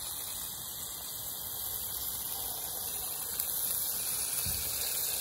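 Dipped tortilla tacos frying in hot fat in a cast iron skillet, giving a steady high sizzle as they crisp.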